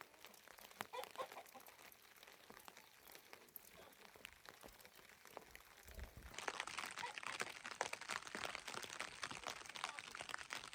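A crackle of many small clicks and taps, faint at first, turning denser and louder about six seconds in.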